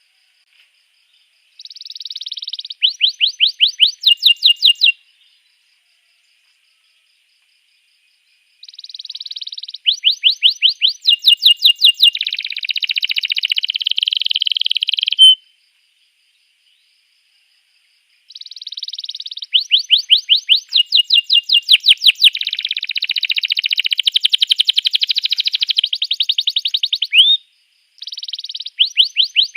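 Domestic canary song: phrases of rapid repeated sweeping notes and buzzy rolls, three long phrases broken by a few seconds of silence each.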